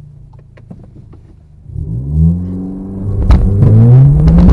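Seat Leon's engine heard from inside the cabin, ticking over quietly with a few light clicks, then revving up about two seconds in. It launches into a full-throttle 0-60 run, and its pitch rises steadily as the car pulls hard.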